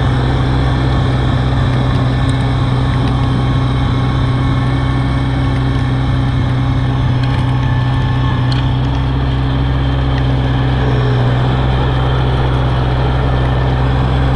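Diesel tractor engine with a front-mounted snowblower running steadily, a constant low drone.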